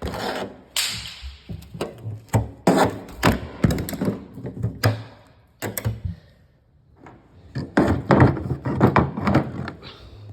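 A hand tool chipping and scraping old body filler off the steel cab roof of a GMC CCKW truck: a run of irregular sharp knocks and scrapes, pausing briefly past the middle and then resuming.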